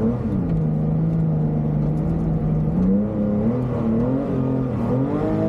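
Air-cooled flat-six engine of a Porsche 911 SC rally car, heard from inside the cabin, held at steady revs for a few seconds, then rising and falling several times as the throttle is worked.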